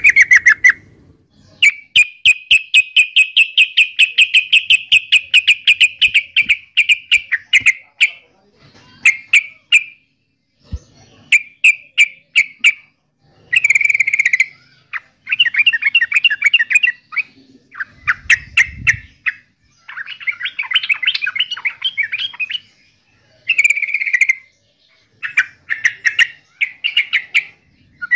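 Yellow-vented bulbul singing loudly in rapid runs of chattering notes. One long phrase of about six seconds comes first, followed by shorter phrases broken by brief pauses.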